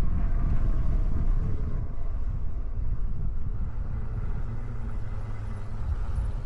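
Wind rushing over the microphone of a camera on a moving e-bike: a steady low rumble with a fainter hiss above it.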